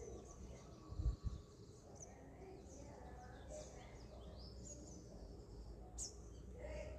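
Faint, high chirps and calls of small birds, with a couple of low thumps about a second in.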